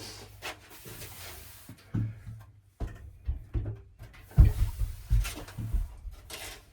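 Irregular clunks, thumps and scraping as a pressurized water tank and its piping are shifted and worked into position, with the loudest thump a little past the middle.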